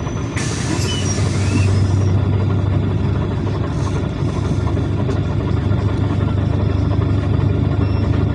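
PAZ Citymax 9 city bus heard from inside the cabin while under way: its engine runs with a steady low hum over road noise, with a brief hiss about half a second in.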